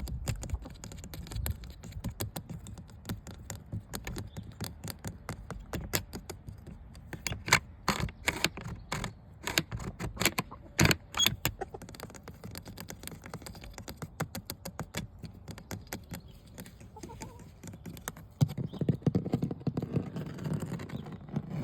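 Fingertip and fingernail tapping on a hard object, several quick taps a second, with a run of sharper, louder taps in the middle. Near the end a denser, lower rustling sound joins the taps.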